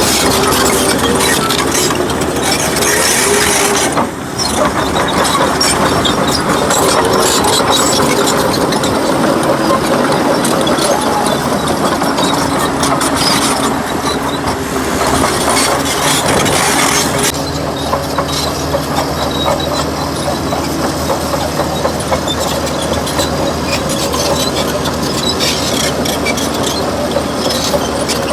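Komatsu D61PX bulldozer working: its heavy diesel engine running steadily under load while the steel crawler tracks clank and rattle.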